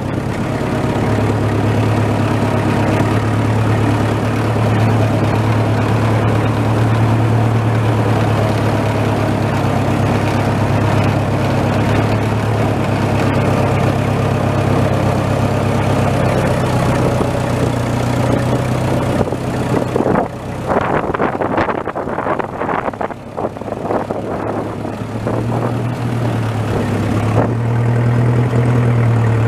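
Tractor engine running steadily while driving over rough ground. A little past the middle there is a stretch of clattering and knocking as the engine eases off, then it picks up again near the end.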